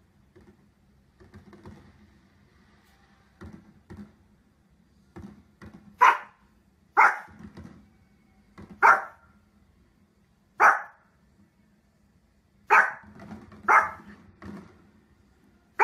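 Small dog barking: a series of about seven short, sharp, loud barks starting about six seconds in, spaced a second or two apart, after a few seconds of only faint sounds.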